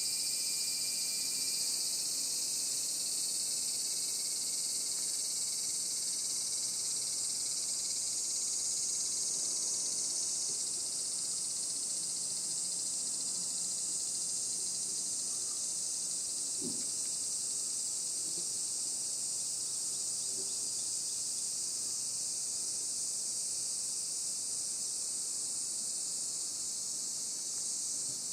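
Steady, high-pitched chorus of insects, unbroken and even in level throughout.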